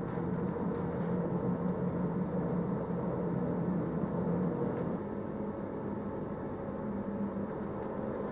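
Electric narrow-gauge train running: a steady rumble with a low hum that fades about five seconds in.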